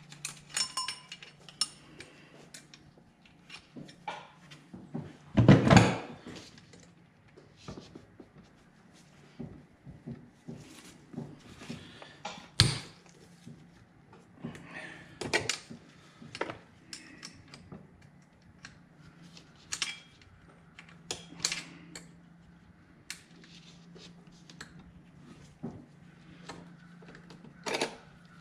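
Hand tools and metal engine parts clicking, clinking and knocking as the fuel rail and injectors are worked off a snowmobile's two-stroke 600 CFI engine, with a louder knock about five and a half seconds in and a sharp click near thirteen seconds. A faint low hum runs underneath.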